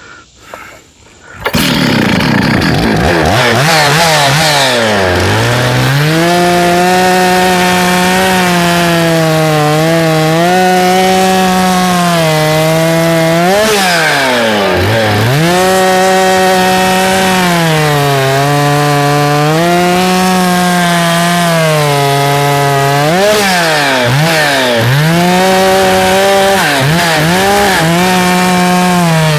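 Stihl 066 Magnum 91.6cc two-stroke chainsaw throttled up about a second and a half in and cutting wood. Its engine speed sinks to a lower steady pitch in the cut and rises again in between, and about three times it drops sharply as the throttle is let off.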